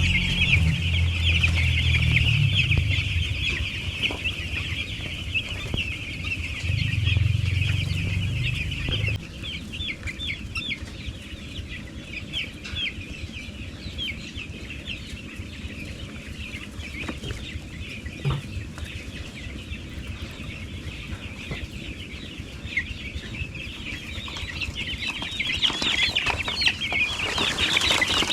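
A crowd of six-day-old broiler chicks peeping constantly, a dense chorus of short high chirps that swells near the end. A low rumble sits under them twice in the first nine seconds.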